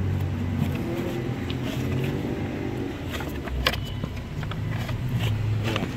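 A motor vehicle engine idling steadily, with scattered sharp plastic clicks and knocks as the A/C evaporator core is worked out of its housing under the dashboard.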